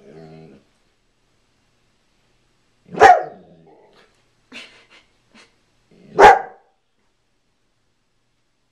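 A dog barking twice, two loud sharp barks about three seconds apart, with a few faint short sounds between them.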